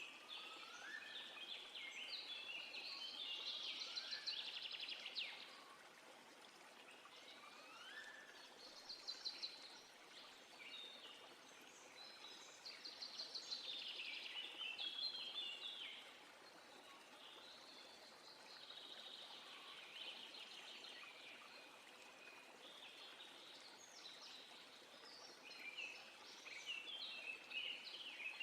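Several songbirds singing faintly, with rapid trills and chirps overlapping throughout and a few short rising whistles in the first several seconds, over a steady soft hiss.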